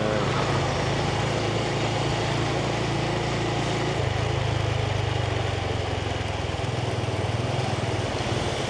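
Yamaha 125cc single-cylinder motorbike engine running steadily under the rider, its low note changing slightly about four seconds in and again near seven seconds, over a steady hiss of road and wind noise.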